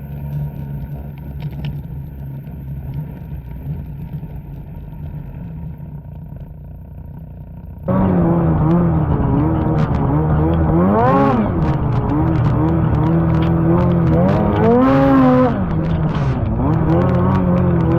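Two-stroke snowmobile engine running at a steady low drone, then about 8 seconds in an abrupt jump to a much louder, close-up snowmobile engine that revs up and back down twice as the throttle is worked.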